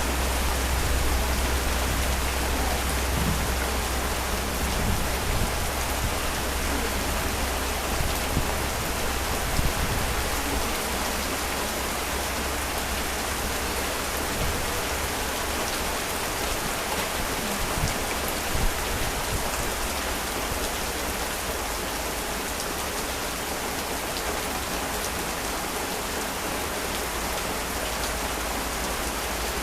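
Heavy rain falling steadily, a dense even hiss of drops on surfaces. A low rumble underneath fades away over roughly the first ten seconds, and a few single drops or taps stand out now and then.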